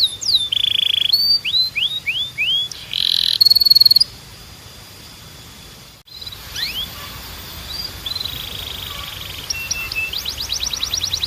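Timbrado canary singing: quick downward-gliding whistled notes and fast rolling trills. The song breaks off into a lull of about two seconds in the middle, then picks up again with more whistles and a rapid trill near the end.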